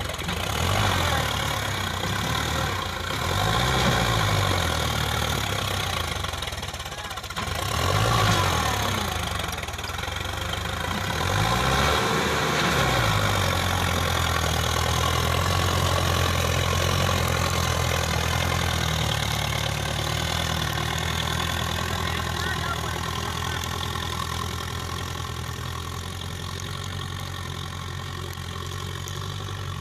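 Sonalika DI 750 diesel tractor engine revving up and falling back about four times, then holding steady revs for the second half. The tractor is struggling to pull a fully loaded sugarcane trolley and not moving forward.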